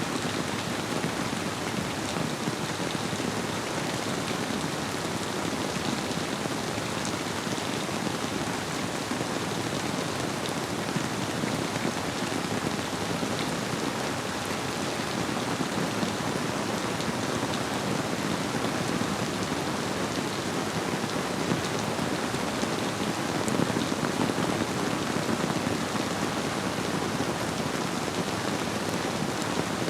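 Steady rainfall blended with a flowing river: an even, constant hiss with a few faint drop ticks.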